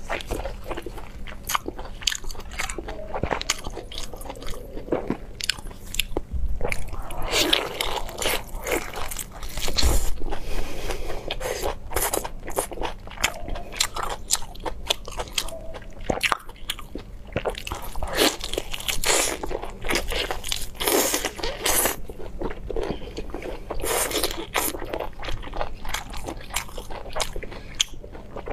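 Close-miked eating of cooked lobster: biting and chewing with many sharp, irregular crackling clicks and wet mouth sounds.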